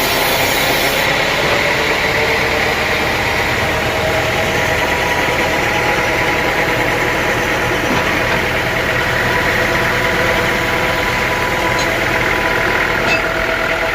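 Sawmill machinery running steadily without cutting, a motor and saw turning with an even hum and several held tones. The high hiss of sawing drops away about a second in.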